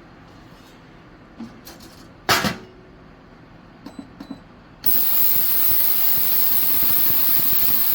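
Small metal carburetor parts clicking, with one sharp clack about two seconds in. About five seconds in, a loud steady hiss starts abruptly.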